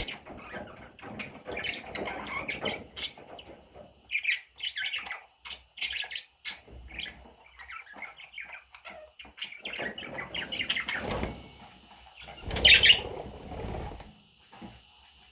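Budgerigar chicks chirping in many short, high calls, with two louder rustling bursts in the second half.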